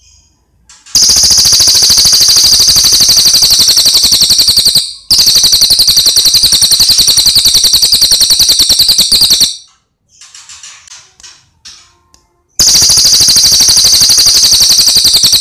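Cililin songbird singing in long, very rapid high-pitched trills of about four seconds each, three in all, with a few softer chirps in the gap between the second and third.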